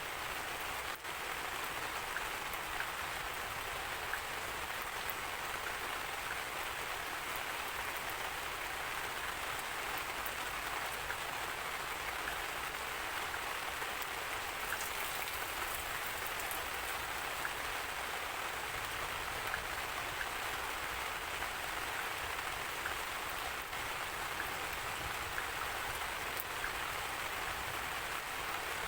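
Steady rain falling, a constant, even hiss of many small drop patters.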